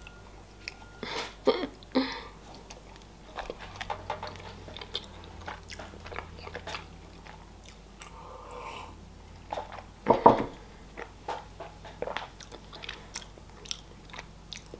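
Biting off and chewing pieces of a thick hollow chocolate egg shell: sharp snaps about a second and two seconds in, then small crunching clicks of chewing. A sip from a mug past the middle, and a louder knock a little after ten seconds.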